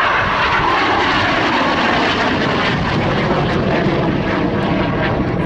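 F-86 Sabre jet engine running loud and steady, a broad rushing roar with no clear pitch.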